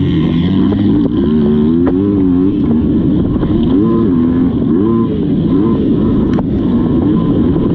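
Motocross bike engine revving up and falling back over and over as the rider works the throttle, its pitch climbing and dropping every second or so. A short sharp knock comes about six seconds in.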